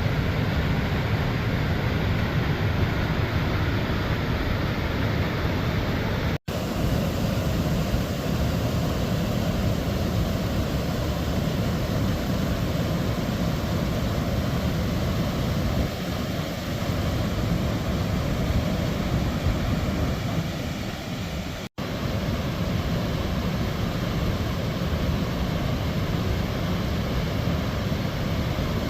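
Waterfall rushing in a steady, loud roar, cut off briefly twice.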